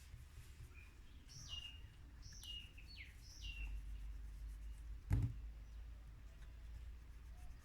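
A bird calls four times, each short note dropping sharply in pitch and then holding briefly, over a faint low rumble. About five seconds in comes a single dull thump, the loudest sound.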